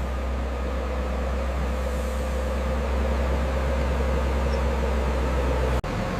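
Heavy diesel construction machinery running steadily, a low engine drone with a faint steady whine above it. The sound drops out for an instant near the end and comes back with a slightly different tone.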